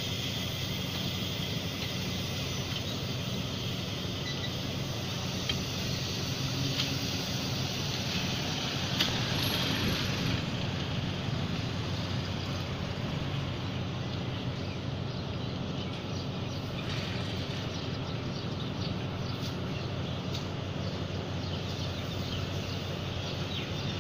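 Passenger train coaches rolling slowly along the platform: a steady low rumble and drone with scattered light clicks and clanks from wheels and couplings, and a brief high squeal about nine seconds in.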